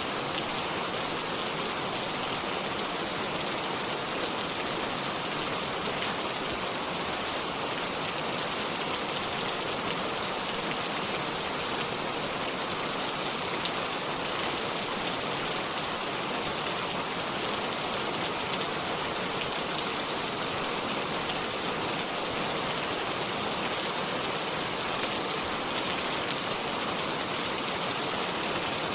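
Steady rainfall pattering on leaves and surfaces, a dense even hiss with many individual drops ticking through it.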